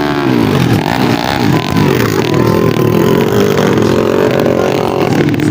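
Several underbone motorcycles racing on a dirt track, their engines revving up and down in overlapping pitch sweeps as riders throttle on and off.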